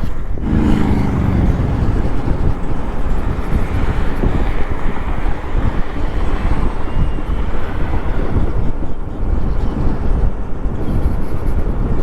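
Steady wind buffeting the microphone with road noise while riding an electric bike, plus a brief low pitched hum about half a second in.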